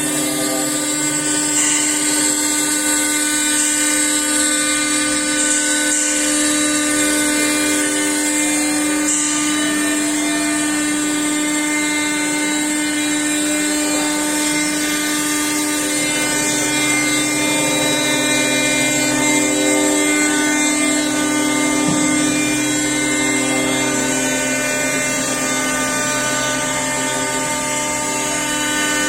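Stone-engraving CNC router running, its spindle giving a steady whine.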